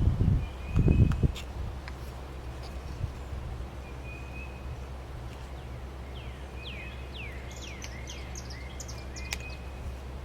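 Birds chirping outdoors with short whistled notes and a cluster of quick falling chirps in the second half, over a steady low rumble. Low rustling thumps come in the first second or so, with a few faint sharp clicks scattered through.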